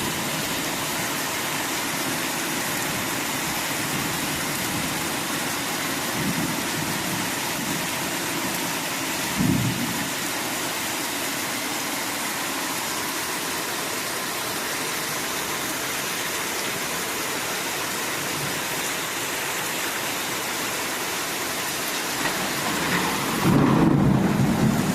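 Heavy monsoon downpour, a dense steady hiss of rain. There is a brief low rumble of thunder about nine seconds in and a louder, longer rumble near the end.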